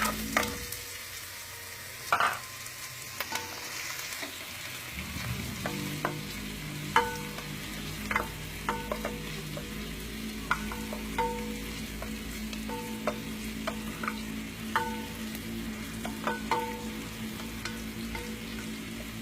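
Food frying in a pan with a steady sizzle while a metal utensil stirs it, striking the pan with ringing clinks about once a second. A steady low hum comes in about five seconds in.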